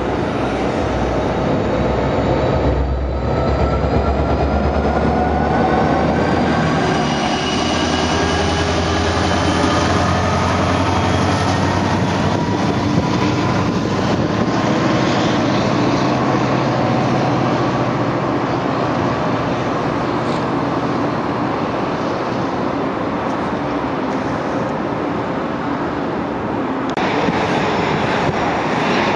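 New Jersey Transit commuter train pulling out. The diesel locomotive's engine is running and the wheels are rolling on the rails, with several tones that rise slowly as the train gathers speed. About two-thirds of the way through, the sound changes abruptly.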